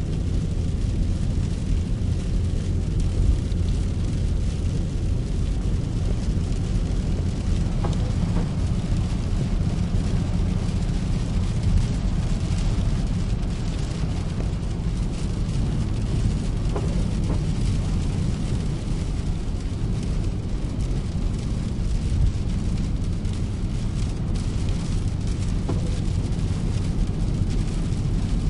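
Car driving in rain: a steady low rumble of the engine and tyres on the road, with an even hiss of rain and spray.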